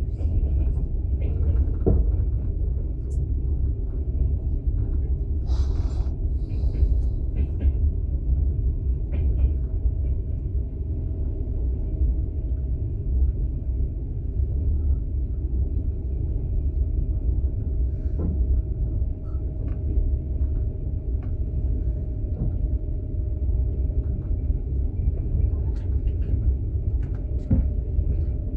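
Inside a passenger train's open sleeper carriage running on rails: a steady low rumble, with a faint steady tone above it and a few light knocks. A brief sharp noisy burst comes about six seconds in.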